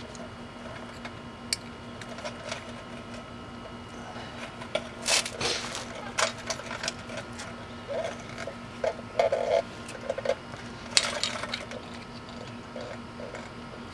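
Scattered clicks, clinks and scrapes of hand tools and metal parts being handled during wheel hub work, with a few short squeaks about eight to ten seconds in, over a steady low hum.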